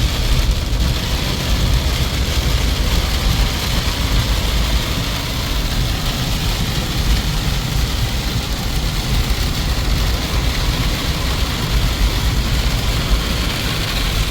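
Steady vehicle engine and road noise with a strong low rumble.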